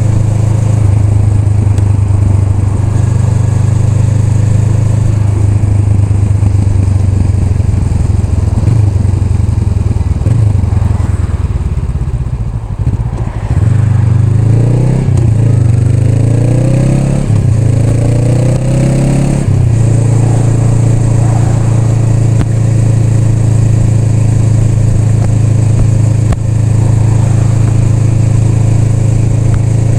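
Honda Rebel 500's parallel-twin engine running under way at a steady cruise. About halfway through it eases off, then accelerates through several gear changes, its pitch rising in steps, before settling back to a steady cruise.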